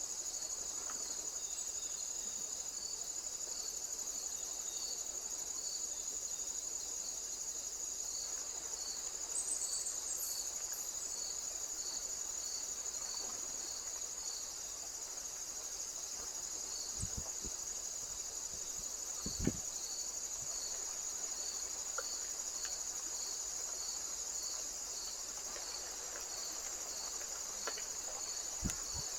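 Singing insects: a steady high-pitched buzz, with a second insect chirping in regular pulses about three every two seconds. A few soft low thumps, the loudest about two-thirds of the way in.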